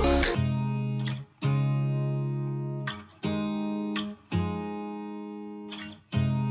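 Background music: a guitar playing a short run of sustained chords, each one struck and left to ring out, about five in all, without singing.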